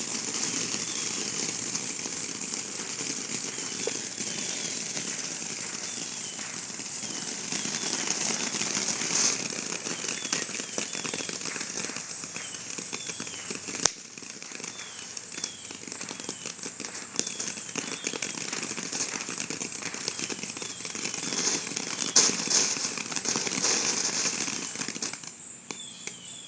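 A ground firework fountain spraying and crackling continuously, with louder swells of dense popping, until it dies down near the end. Crickets chirp steadily underneath.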